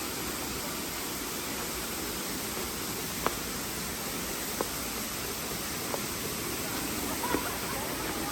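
Waterfall pouring, a steady even rush of water, with a few short sharp clicks.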